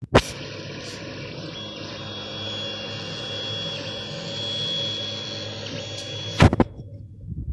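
FDM 3D printer running mid-print: fans giving a steady whir, with stepper motors whining in shifting low tones as the head moves. A sharp click comes just after the start and another near the end, after which the sound drops away.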